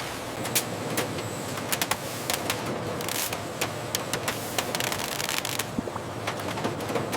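Irregular sharp clicking and rattling, several clicks a second at uneven spacing, over a steady machine hiss.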